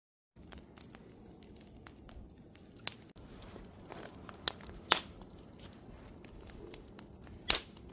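Wood campfire crackling: a steady low rush of burning with scattered snaps and a few louder sharp pops.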